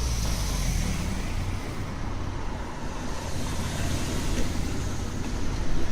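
Audi R8 engine and exhaust running at low revs, a steady low rumble, somewhat stronger in the first second.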